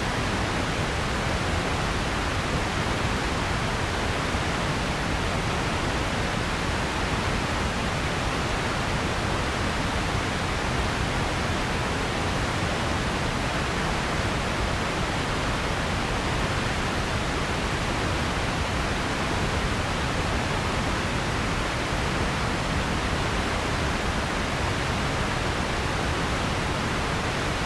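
Steady, even noise track, a constant hiss with no change in level or character.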